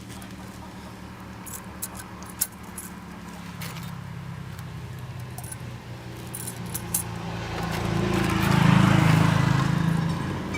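An engine running steadily with light metallic clinks; it grows louder about eight seconds in, then eases off near the end.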